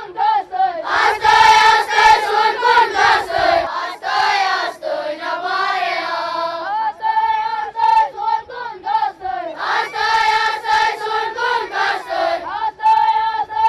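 Group singing, voices that sound like children's, a melody that alternates between thinner passages and fuller sections where many voices join in.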